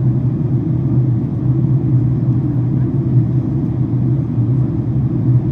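Steady in-flight cabin rumble of a Boeing 767-400ER airliner during its descent: engine and airflow noise, even and unbroken.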